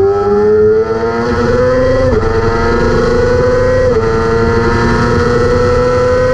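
600 Superbike racing motorcycle engine at high revs under hard acceleration, its pitch climbing. It drops sharply on upshifts about two and four seconds in, then climbs again more slowly in each higher gear.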